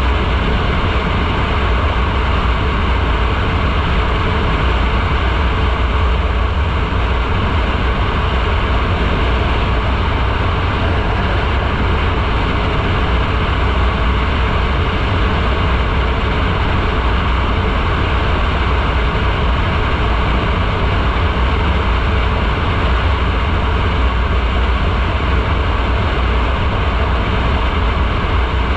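Motorcycle riding at a steady speed: a loud, unbroken rush of wind over the microphone mixed with engine and road noise, with a heavy low rumble.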